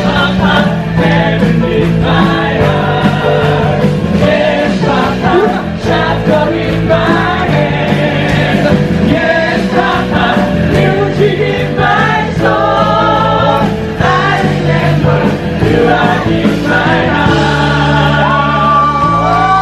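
Live performance: male voices singing with vibrato over a full band accompaniment.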